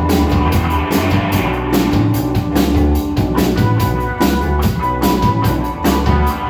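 Rock band playing an instrumental passage: drum kit with a steady cymbal beat, sustained guitar notes and bass.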